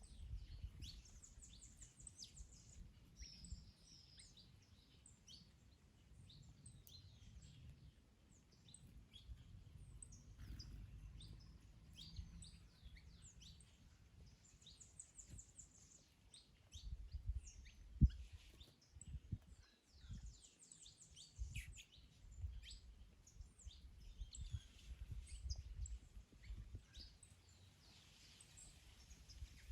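Faint songbirds chirping and trilling, with wind rumbling on the microphone in gusts. One low thump about 18 seconds in.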